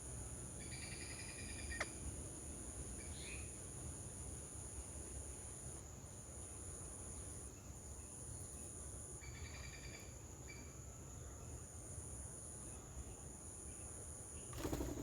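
Steady high-pitched drone of insects, with two short bursts of rapid high chirping from a small animal, about half a second in and again near the middle. A brief rustling knock comes near the end.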